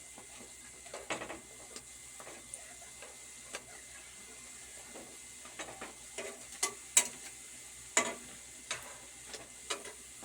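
Dumplings frying in hot oil in a pan: a steady sizzle, with scattered clicks and knocks of a utensil against the pan as they are turned over. The sharpest knocks come about seven and eight seconds in.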